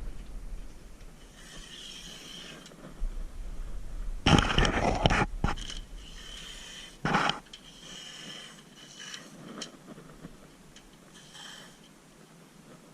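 Air-powered spray gun hissing in several short bursts as rust-proofing coating is sprayed, broken by a loud clatter about four seconds in and a shorter knock about seven seconds in.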